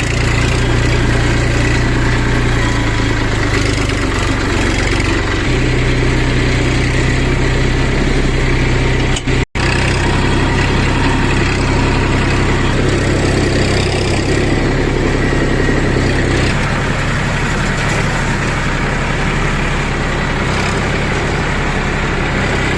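Heavy diesel engine of construction machinery running steadily, its note shifting a couple of times, with a brief break about nine and a half seconds in.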